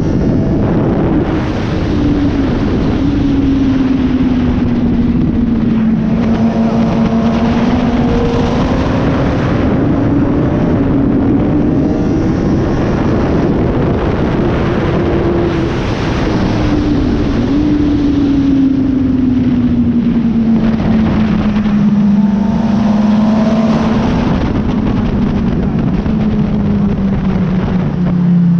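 Suzuki GSX-R sport bike's inline-four engine running hard at high revs, its pitch rising and falling slowly as the rider works through corners, heard onboard with heavy wind rush.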